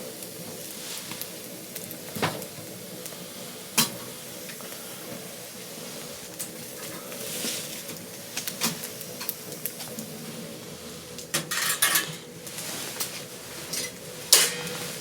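Cutlery clinking against dishes and a cooking pot during a meal, with scattered sharp clinks, the loudest near the end, over a steady sizzle of food cooking.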